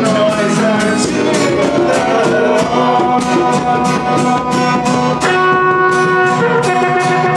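Live gospel praise music: a band plays with a steady beat while voices sing. Long held notes come in about five seconds in.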